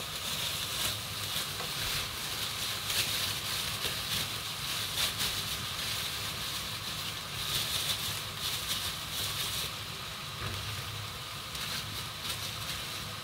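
Shell-on prawns frying in hot oil in a pan: a steady sizzle with scattered crackles, while chopped leafy greens are shaken into the pan from a plastic bag.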